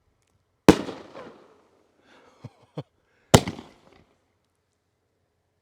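Aerial firework shells going off: two sharp bangs about two and a half seconds apart, each trailing off in echo, with a couple of faint pops between them.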